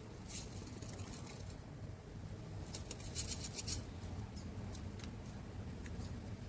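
Light scratching and crinkling from hands handling broccoli seedlings, their pots and potting mix, in two short spells over a low steady hum.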